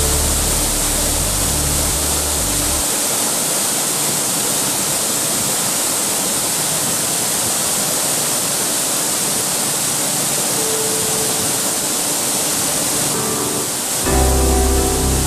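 Steady rushing roar of a waterfall, mixed with relaxing background music whose bass drops out about three seconds in and comes back near the end.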